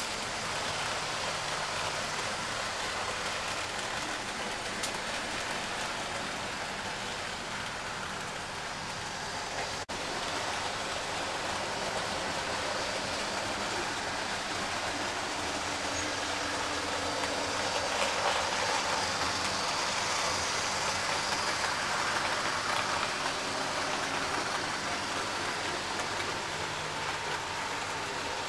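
Model Class 20 diesel locomotive with a rake of teak coaches running on the track: a steady motor hum and wheel rumble with hiss, growing somewhat louder about two thirds of the way through as the train comes closer.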